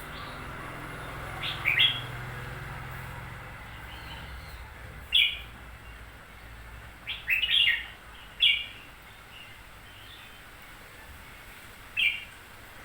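Red-whiskered bulbul giving short, sharp chirping calls, some single and some in quick pairs or clusters, with pauses of a few seconds between them.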